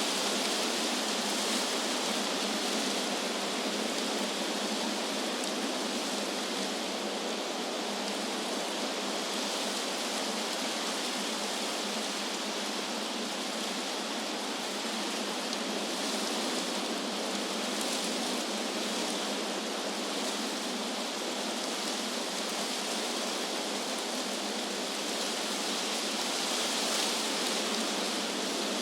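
Wind blowing through trees: a steady rustling hiss with slow, gentle swells in level.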